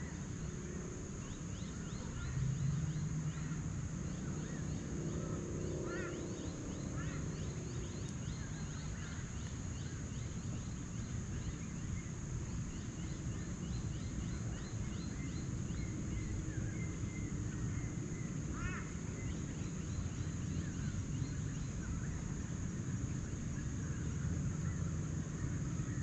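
Many small forest birds chirping and calling, in quick repeated short notes, over a steady low rumble and a constant high-pitched drone.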